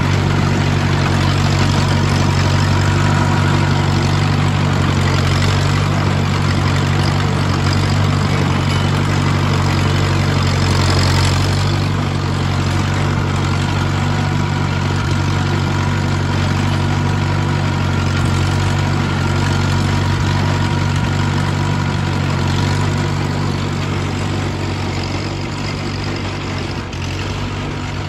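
Engine of a vintage 1940s Allis-Chalmers Speed Patrol road grader running steadily, dropping a little in level about twelve seconds in and easing off toward the end.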